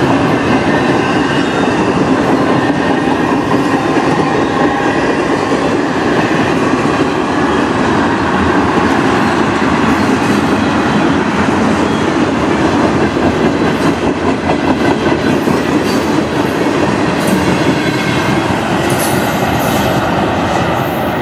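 Freight cars of a CN manifest train rolling steadily past at speed, flatcars and then tank cars. The wheels clatter over the rail joints on top of a constant loud rumble.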